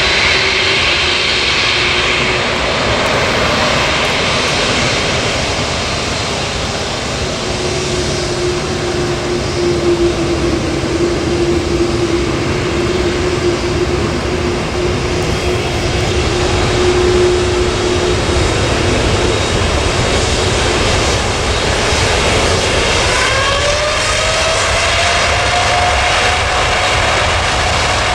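Boeing 747-8F's four GEnx jet engines running loudly and steadily, with a whine that rises in pitch about three quarters of the way in.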